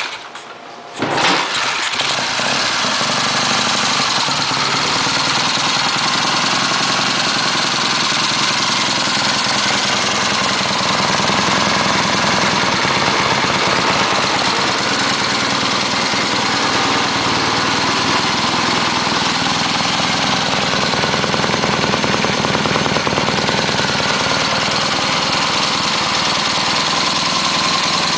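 1972 Triumph Bonneville T120V's 650 cc parallel-twin engine kick-started, catching about a second in and then running steadily at idle.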